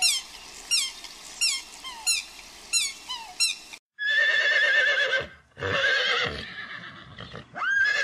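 Canada goose goslings peeping, a run of high, falling peeps about every two-thirds of a second. Just before the middle it cuts to a horse whinnying, a wavering neigh given several times in a row.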